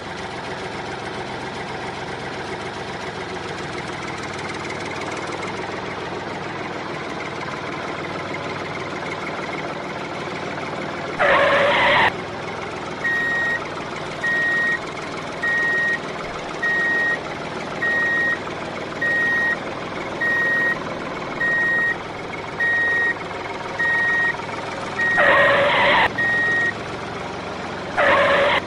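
Vehicle engine running steadily. From about halfway through, a reversing alarm beeps about once a second, with three short, loud honks.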